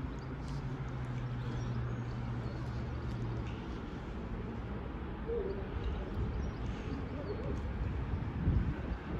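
A diesel locomotive's low, steady rumble. It carries a steady hum that fades out about three and a half seconds in. A short bird-like call, likely a pigeon cooing, comes a little past the middle.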